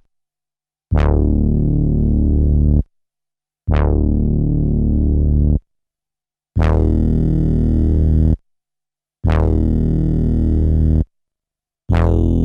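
A low synthesizer bass note played back from a 12-bit SP-1200 sampler five times, each held for about two seconds with a short silence between. Each note starts bright and quickly turns darker. The first two notes are duller and the last three brighter.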